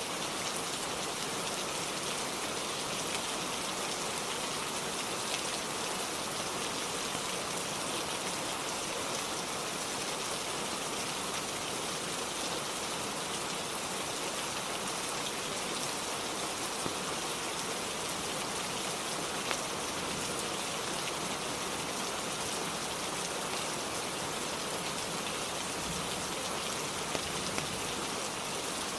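Steady rain falling on a roof, an even hiss with a few faint sharper drop ticks.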